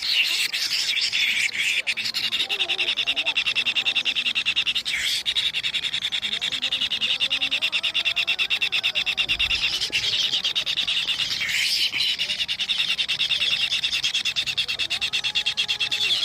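Kingfisher chicks begging with a continuous, rapid rasping buzz, briefly interrupted twice.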